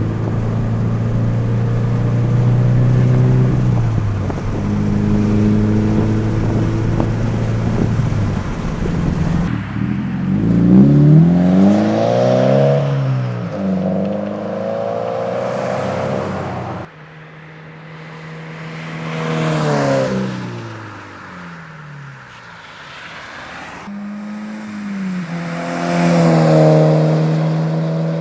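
Subaru BRZ flat-four engine through an aftermarket axle-back exhaust: first running steadily with a few rises and drops in revs, then the car driving past more than once, the engine note swelling and falling away as it passes.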